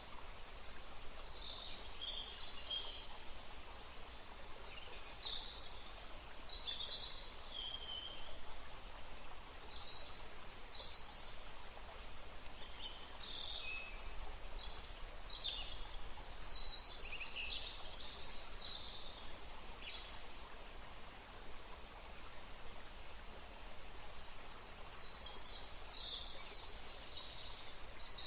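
Woodland ambience: several songbirds chirping and whistling in short phrases over a faint steady hiss, busiest midway and again near the end, with a brief lull between.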